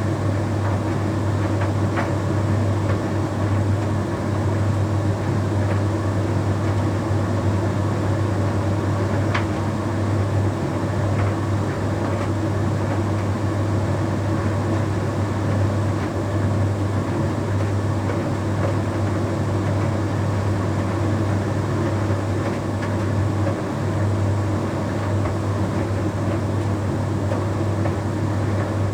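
Bosch Series 6 heat pump tumble dryer running mid-cycle, a steady low hum with a few faint ticks.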